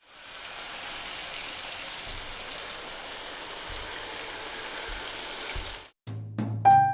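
A steady hiss for about six seconds that cuts off suddenly, followed by piano notes starting one at a time near the end.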